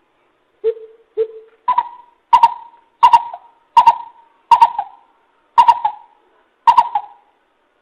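Greater coucal calling a series of deep hooting notes, about nine in all, spaced a little under a second apart. The first three are lower and softer; the rest jump higher and louder.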